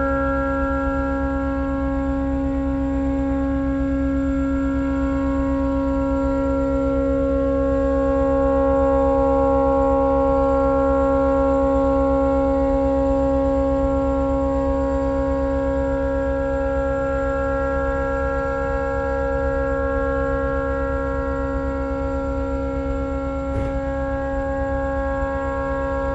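A tugboat's horn stuck on because of a malfunction, sounding one unbroken, steady multi-tone blast.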